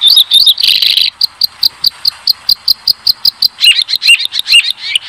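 European robin singing: high chirps give way to a fast, even run of short repeated notes, about five a second, then a few lower, looping notes near the end.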